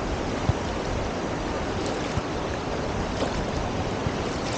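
Steady beach ambience of surf washing on the shore, with a few soft low thumps about half a second and two seconds in.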